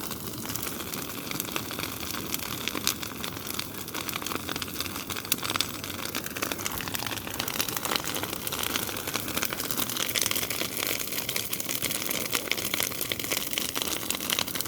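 Large bonfire of brush and branches burning, crackling constantly with many small pops over a steady rushing noise.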